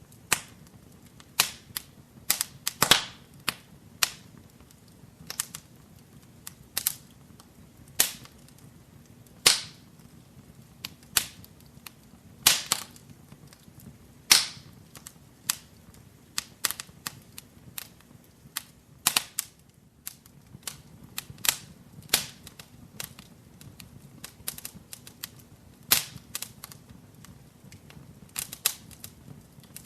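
Wood fire crackling in a fireplace: irregular sharp pops and snaps, a few much louder than the rest, over a faint low rumble of the flames.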